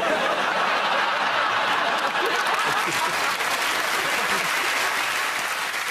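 Studio audience applauding, starting abruptly and holding steady before easing slightly near the end.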